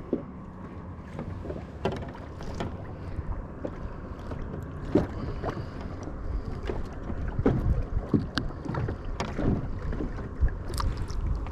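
Strong wind buffeting the microphone as a low rumble, with choppy water slapping and knocking irregularly against a small plastic boat.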